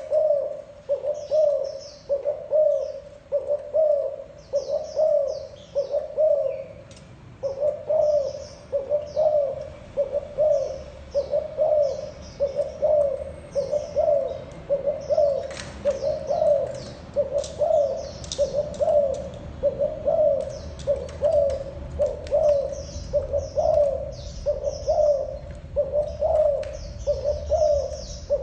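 Spotted dove giving its short bowing coos (the 'gù' call) in a steady, unbroken series, about one every three-quarters of a second. Small birds chirp faintly and high in the background.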